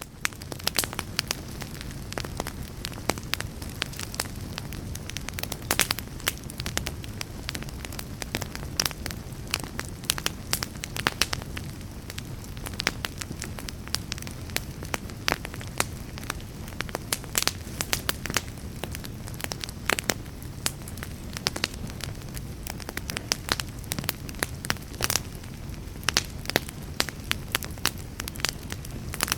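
Fire burning in a fireplace, crackling with frequent sharp, irregular pops over a steady low rumble.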